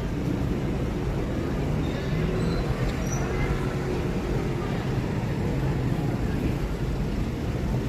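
Street ambience: a steady low rumble of passing traffic, with faint voices in the background.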